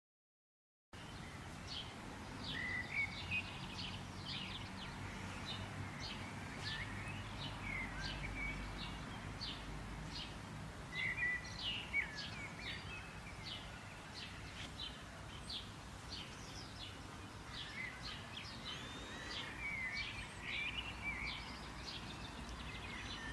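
Birds chirping: many short, high calls in quick, overlapping succession over a faint low rumble, starting abruptly about a second in.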